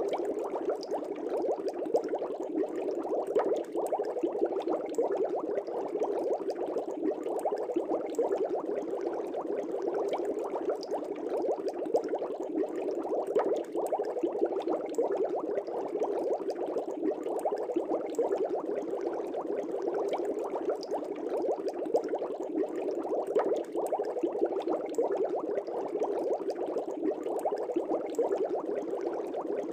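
Air bubbles streaming and bubbling in a fish tank, a steady, dense fizz of many small pops.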